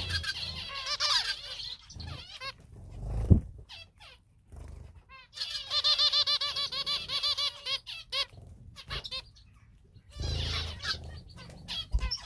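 A group of caged finches, zebra finches among them, calling in quick runs of short nasal chirps. The calls come in several spells with quieter gaps between. A brief knock sounds about three seconds in.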